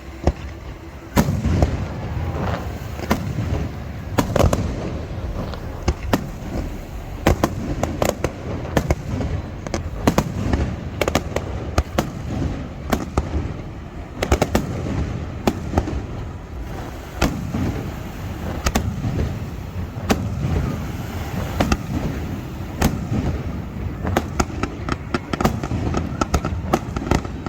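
Aerial fireworks display: shells bursting with many sharp cracks and booms at irregular intervals, over a continuous low rumble of overlapping explosions. The bursts grow denser about a second in.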